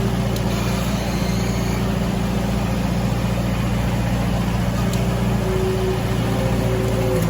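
Engine of a heavy machine running steadily at constant speed, a low even hum, while a log is being pulled.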